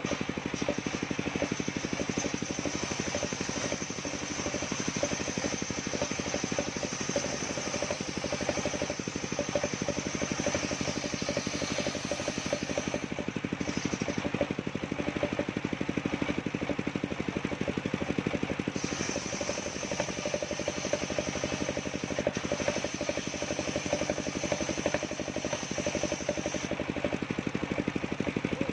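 Engine-driven portable circular sawmill running steadily, with a high whine over the engine that drops out briefly about halfway and again near the end.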